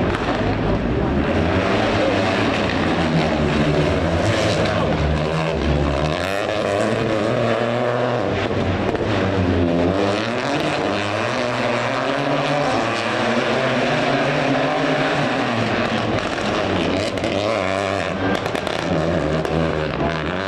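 Rally car engine at high revs, pitch climbing and dropping repeatedly through gear changes and lifts as the car drives through the stage.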